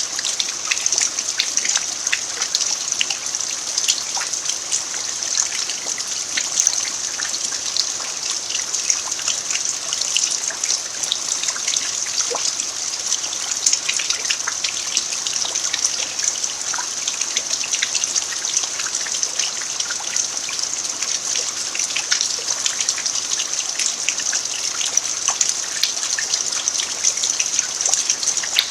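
Steady rain falling on a dirt yard, a constant hiss with many small drop ticks and a trickling of runoff water.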